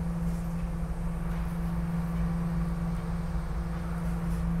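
SEPTA regional rail car standing at a station platform, heard from inside the car: a steady low electrical hum over a deep rumble.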